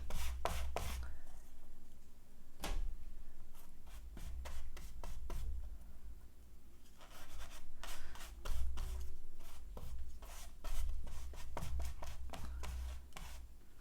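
Hands pressing and rubbing glued paper cut-outs down onto a collage, with irregular clusters of short taps and dull bumps on the work surface.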